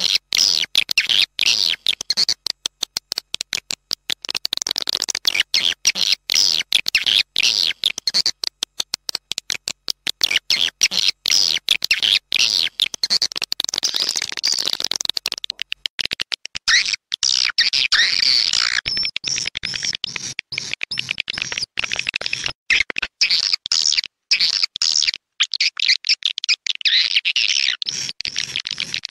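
Swiftlet lure call: a dense, rapid stream of recorded edible-nest swiftlet chirps and twitters, high-pitched and choppy, the kind of sound played to draw swiftlets into a nesting house. The chatter shifts in texture about halfway through and again near the end.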